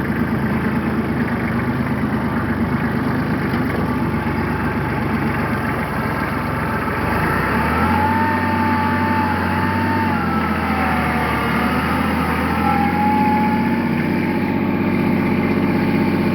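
Tractor engine running steadily as the tractor is driven, its note shifting a little about halfway through. A thin wavering whine rises over the engine for about five seconds in the middle.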